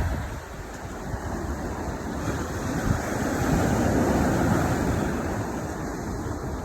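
Ocean surf washing in, swelling to its loudest around the middle and easing off, with wind buffeting the microphone.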